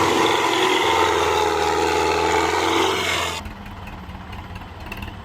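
Loud engine running for about three and a half seconds, then an abrupt cut to the quieter, low, even pulsing of a Belarus MTZ-50 tractor's four-cylinder diesel engine idling.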